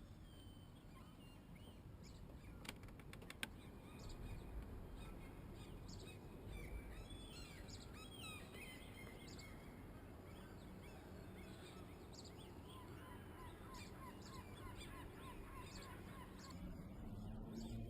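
Faint bird calls over a steady low rumble, with a run of short repeated calls in the second half and a few sharp clicks about three seconds in.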